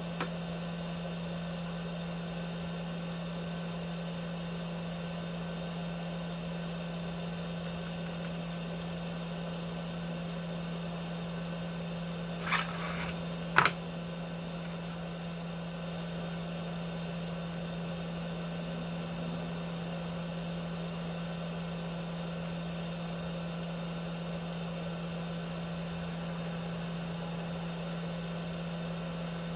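Steady low machine hum from workbench equipment, with a short clatter about twelve and a half seconds in and a sharp click about a second later.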